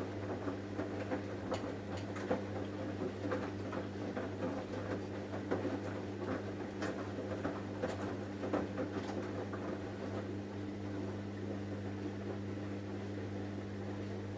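Samsung Eco Bubble washing machine partway through a cotton wash: a steady low hum with irregular light patter and clicks of the wet load and water tumbling in the turning drum.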